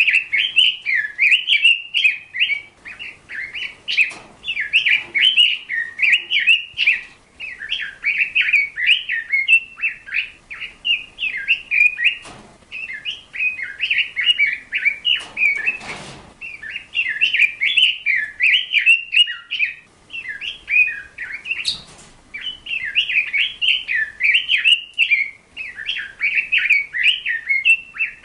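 Birds chirping and twittering continuously in rapid, overlapping phrases, with a few brief knocks.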